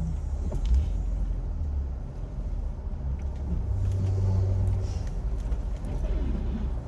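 Jeep engine running at a low, steady pace while crawling a trail, with a deep rumble that swells slightly about four seconds in and a few faint knocks and rattles.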